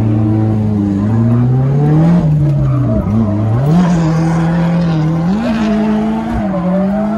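Drift car engine revving up and down through a slide, with tyre noise underneath. The revs climb, dip sharply about three seconds in, climb again and hold, then fall away near the end.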